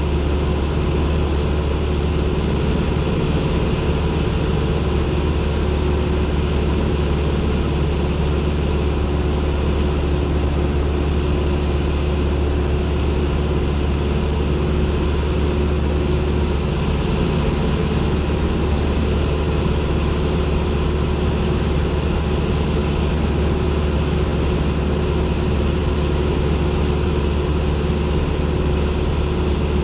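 Cessna 172N's four-cylinder engine and propeller droning steadily in flight, heard inside the cockpit.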